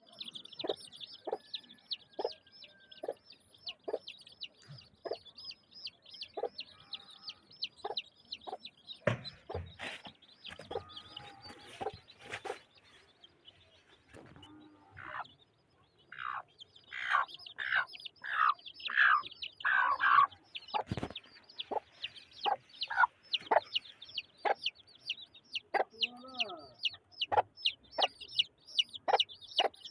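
Aseel chicks peeping constantly in high, rapid cheeps while an adult chicken clucks at intervals. A run of louder calls comes about two-thirds of the way through, and a few knocks sound near the middle.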